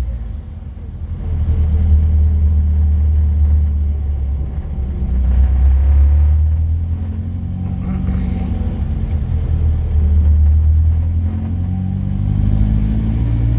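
Classic car engine and road noise heard from inside the moving car, a low rumble with the engine note rising and easing off several times as the car accelerates and slows.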